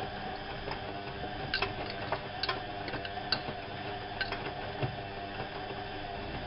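Whirlpool AWO 5346 washing machine running with a steady motor hum, with irregular sharp clicks and ticks scattered over it, about half a dozen.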